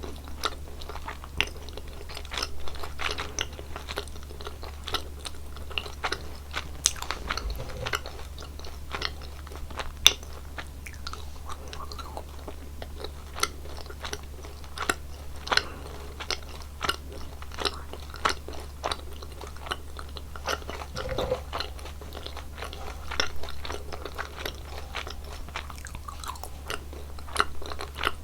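Close-miked chewing and biting of gummy jelly candies: a steady run of many small, irregular mouth clicks and bites.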